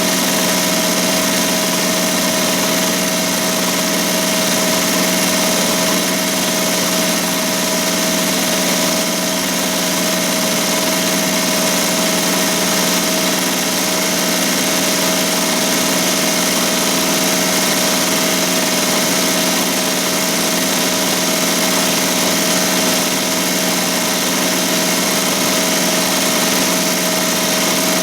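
ZSK Sprint 10-needle commercial embroidery machine stitching at about 1200 stitches per minute: a steady, even machine running sound with one constant tone.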